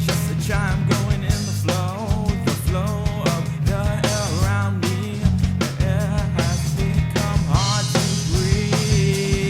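Rock band playing: drums, electric guitar and bass, with a wavering melodic line over them.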